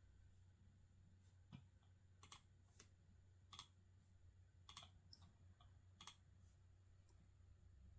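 Faint, scattered clicks of a computer keyboard and mouse, about eight irregular clicks with pauses between them rather than steady typing, over a faint steady low hum.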